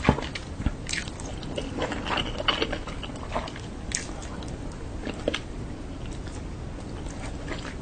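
A person chewing and biting food, with many short clicks and smacks scattered through the eating.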